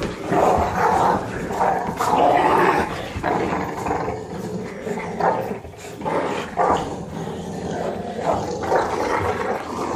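Puppies growling and grumbling at each other during rough play-fighting.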